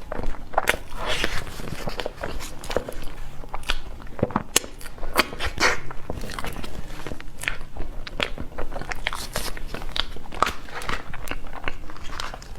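Close-miked ASMR eating sounds: a person biting and chewing cake, with frequent irregular wet mouth clicks and crackles.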